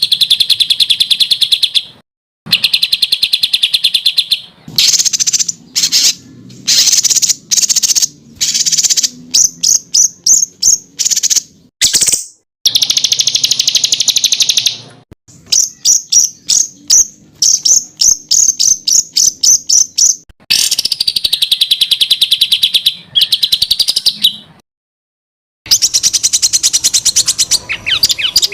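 Songbird song for training competition birds: loud, dense runs of very fast, high, sharp repeated notes (the 'tembakan' phrases), some blurred into continuous trills and others spaced as separate stabbing notes, broken by several brief abrupt silences between phrases.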